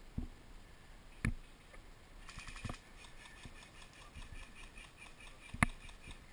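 A short burst of rapid, evenly spaced clicks a little over two seconds in, typical of a distant airsoft electric rifle firing on full auto, then faint scattered ticks. Two sharp single knocks come about a second in and near the end.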